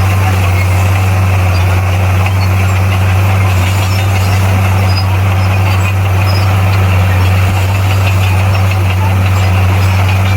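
Heavy earthmoving machine's diesel engine running at a steady speed, with a deep, unchanging hum.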